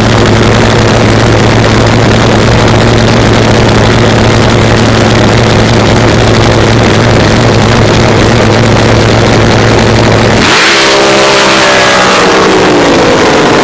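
A drag boat's engine idling loudly and steadily, then, about ten seconds in, the throttle opens hard for the launch and the engine pitch climbs quickly as the boat accelerates away.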